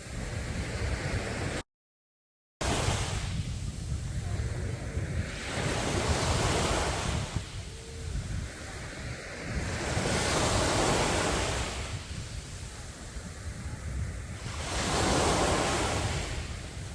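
Sea surf breaking on a beach, the rush of each wave swelling and falling back every few seconds. The sound cuts out completely for about a second near the start.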